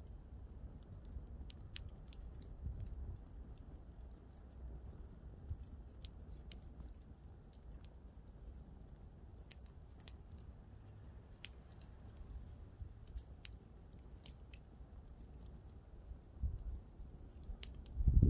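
Campfire crackling: scattered sharp pops and snaps of burning wood over a steady low rumble, with a couple of louder low thumps near the end.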